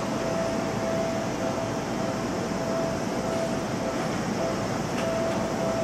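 Seibu 30000-series electric train moving slowly along the platform: a steady running rumble, with a faint hum that comes and goes.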